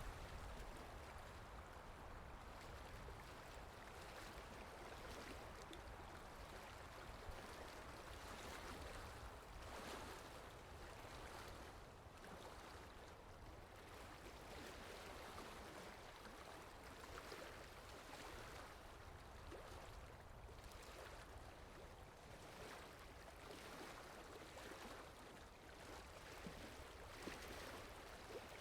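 Soft, steady rain in a forest, a faint even hiss with gentle swells.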